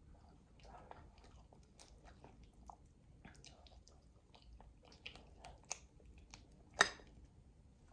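Close-miked eating: soft chewing and mouth sounds with scattered small clicks, and one much louder sharp snap nearly seven seconds in.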